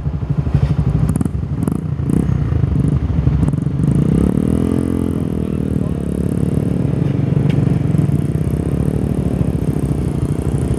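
Motorbike engine running steadily, its pitch rising and then easing back down about halfway through as the throttle is opened and closed.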